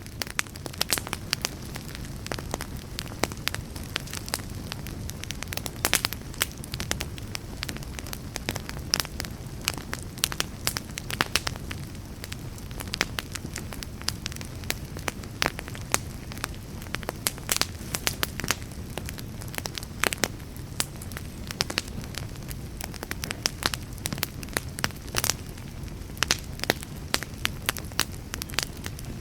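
Wood fire burning with frequent sharp, irregular crackles and pops over a steady low rumble of the flames.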